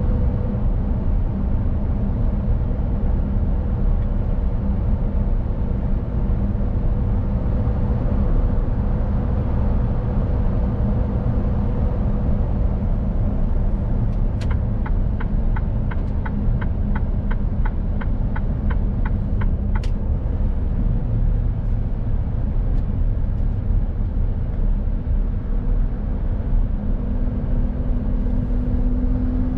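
Mercedes-Benz Actros truck driving with a steady diesel engine note and road rumble. Midway, a turn-signal indicator ticks evenly, about three times a second, for about five seconds.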